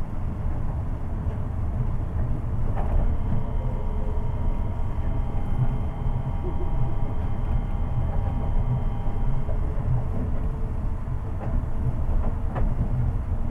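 Seibu 8500 series rubber-tyred guideway train running, heard from inside the car as a steady low rumble. A whine of several steady tones from the Hitachi IGBT-VVVF inverter sets in about three seconds in and stops about three-quarters of the way through. A couple of sharp clicks come from the running gear.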